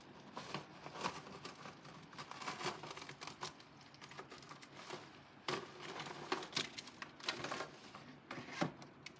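Irregular light clicks, taps and clinks of small hard objects being handled.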